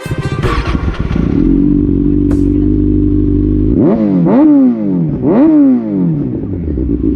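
Kawasaki Ninja ZX6R inline-four through an Austin Racing slip-on exhaust, running unevenly for about a second before settling into a steady idle. It is then revved twice, each rev a quick rise in pitch that falls straight back to idle.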